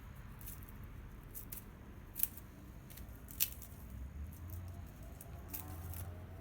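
Wood fire crackling, with a steady low rumble and scattered sharp pops, two of them loud.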